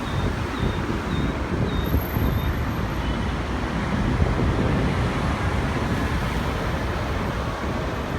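Jet aircraft engines producing a steady rumbling roar that swells slightly midway.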